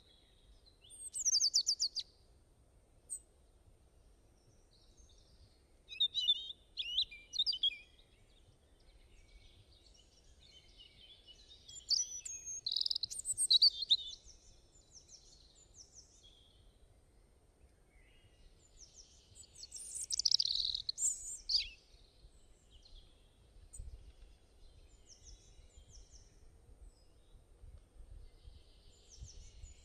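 Songbirds singing: bursts of quick, high chirps and short trills every few seconds, with fainter calls between.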